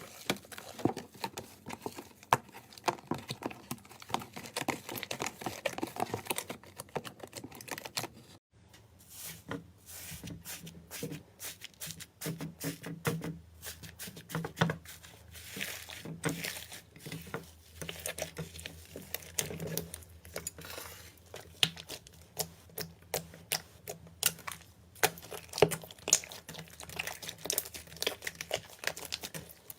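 Slime being squeezed and worked, giving dense, irregular crackling and popping clicks, in two stretches split by a brief break about eight seconds in.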